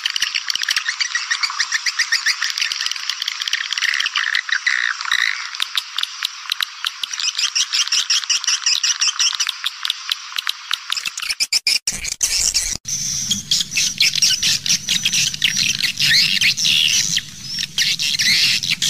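Swiftlet lure recording: dense, rapid twittering and chirping of many swiftlets. About twelve seconds in, the recording changes, with the twittering higher and a low hum underneath.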